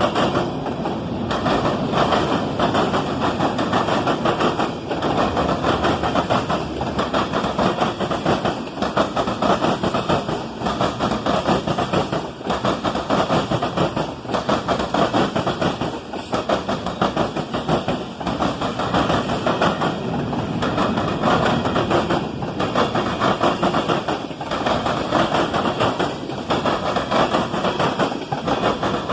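Freight train cars rolling past at close range, wheels clattering in a steady run of clicks over the rail joints.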